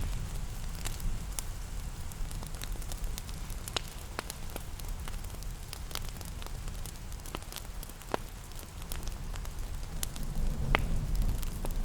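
Wood fire crackling with irregular sharp pops over a steady low rumble, mixed with a soft hiss of rain; the rumble swells near the end.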